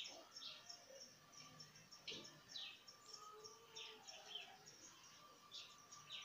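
Faint birds chirping: many short, high chirps that fall in pitch, repeating throughout over near silence.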